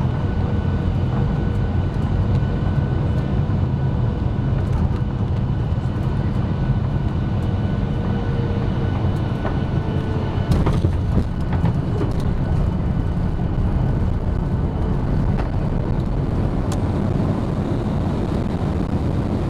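Cabin noise of a Ryanair Boeing 737 landing: a steady low rumble of engines and airflow with a thin engine whine over it. A few brief rattles and knocks come about halfway through.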